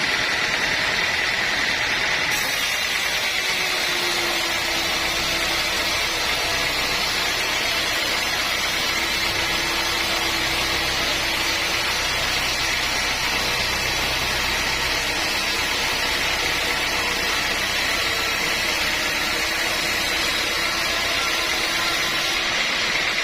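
Sawmill machinery running steadily: a loud, even mechanical noise with a low rumble underneath.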